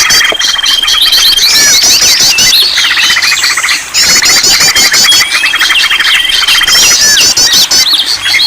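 Dense mix of many songbirds calling at once: overlapping fast trills, chirps and squeaky notes, with a long steady whistle heard twice. A bird-lure (pikat) recording of the kind played to set caged songbirds singing.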